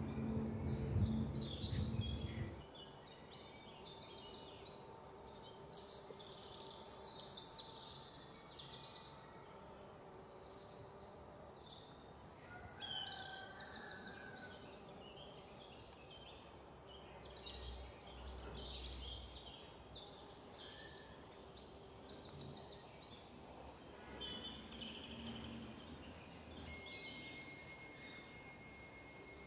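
Small birds chirping and singing in quick, high phrases again and again, with a low rumble during the first two seconds or so.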